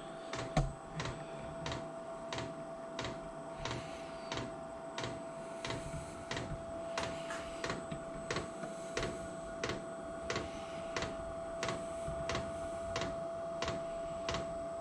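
Diesel air heater's fuel dosing pump ticking steadily about twice a second over the steady whine of its combustion fan, during start-up before the burner has fired.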